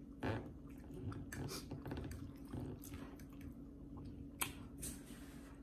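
A person chewing food, with wet mouth noises and a few sharp clicks; the loudest clicks come near the start and about four and a half seconds in.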